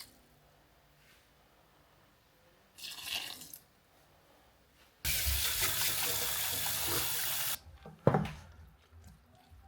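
Water tap running into a sink for about two and a half seconds, turned on and off abruptly after a brief splash of water. A single thump follows just after it shuts off.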